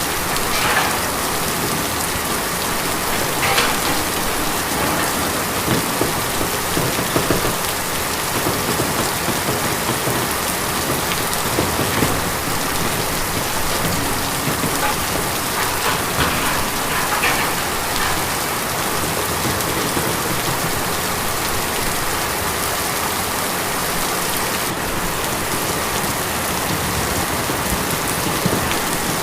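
Steady rain falling on a tin roof, with an occasional louder drop standing out.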